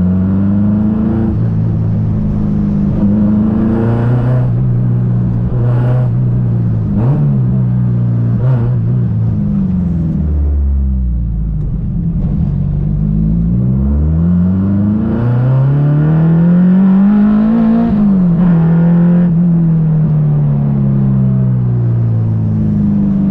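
Honda Civic EG6's B20-based four-cylinder with a Type R head and high cam, accelerating hard: the engine pitch climbs and drops back several times as revs build and fall between gear changes, with one long climb just past the middle before it falls away.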